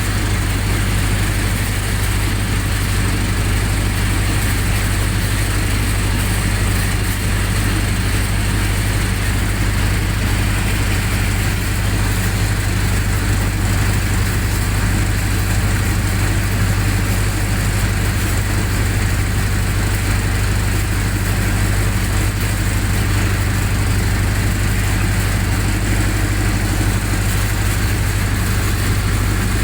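Generator set's engine running steadily at a constant speed.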